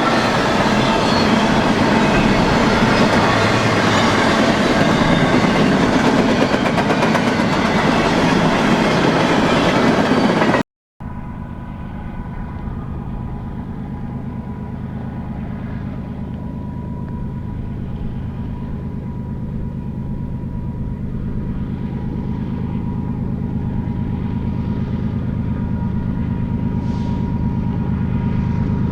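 Freight train cars rolling past with steady wheel-and-rail clatter. After about ten seconds it cuts off abruptly, and a quieter diesel locomotive hum takes over, slowly growing louder as the train approaches.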